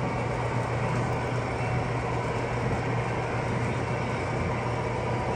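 Model trains running on a display layout: a steady rumble of wheels on track, without a break.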